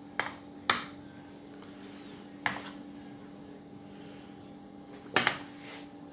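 Spoon and fork clinking against a dish while spreading mashed potato: four sharp clinks, two close together near the start, one about two and a half seconds in and one near the end, over a steady faint hum.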